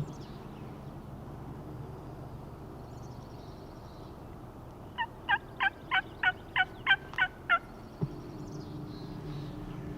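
A series of about nine turkey yelps, evenly spaced at roughly three to four a second and lasting a little under three seconds, about halfway in. A single sharp click follows.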